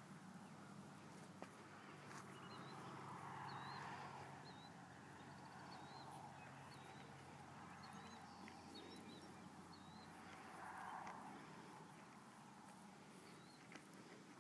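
Faint birds chirping: short, high, curling notes repeated every second or so over a quiet outdoor background, with a soft rushing sound that swells twice, about three seconds in and again near eleven seconds.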